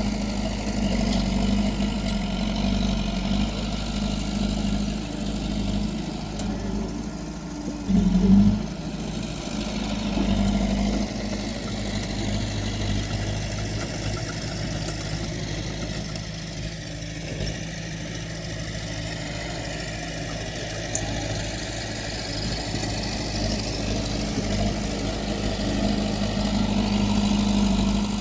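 Diesel engine of heavy earthmoving equipment running steadily, with a short, louder surge about eight seconds in.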